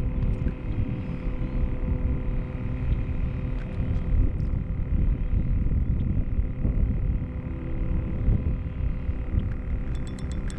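Wind rumbling on the microphone over a steady low hum, with a few light clicks near the end.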